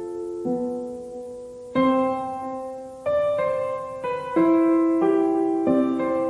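Background music: a piano playing slow, gentle chords, each struck and left to ring and fade.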